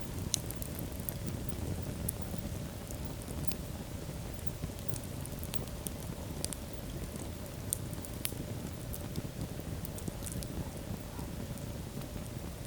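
Wood fire burning in a fireplace: a steady low rush of flames with sharp, irregular crackles and pops scattered throughout.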